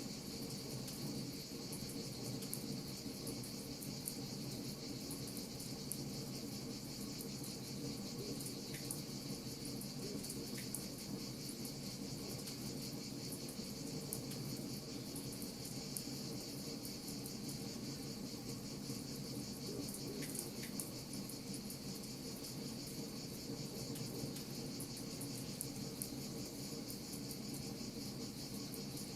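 Wood fire crackling with scattered small pops, over a steady high chirring of crickets and a low steady rumble.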